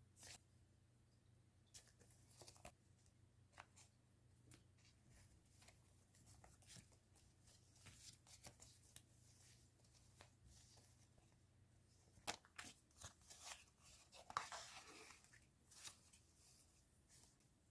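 Faint rustling, crinkling and light tapping of paper and plastic stationery packaging being handled, with a louder crinkle late on.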